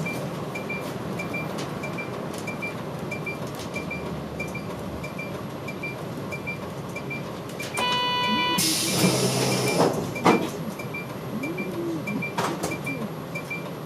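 Inside a running route bus: a steady ticking, about two and a half clicks a second, typical of the turn-signal indicator, over the engine and road rumble. About 8 s in comes a short electronic chime tone, followed by a brief hiss of air and some faint squeals.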